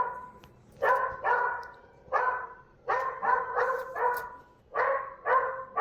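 Dog barking: about nine short barks in bunches of two to four, with brief pauses between the bunches.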